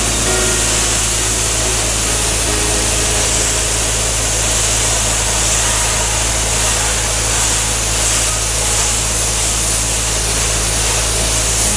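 The Ghibli Skid Silent high-pressure cleaning unit running steadily with a constant low engine drone, under the strong hiss of its high-pressure spray.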